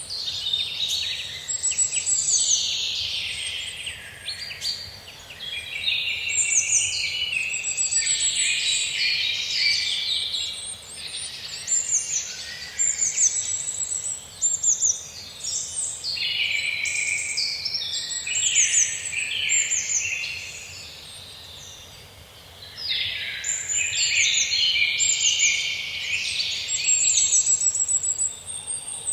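Several songbirds singing and calling at once, a dense chorus of overlapping chirps and high trills that comes in long bursts, easing off briefly twice.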